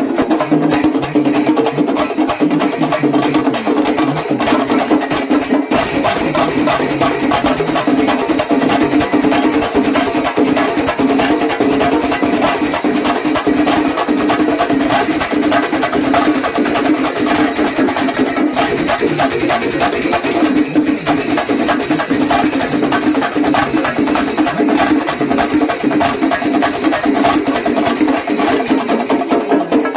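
Kerala festival chenda drum ensemble playing fast, continuous, dense drumming, with a steady held tone sounding beneath the beats.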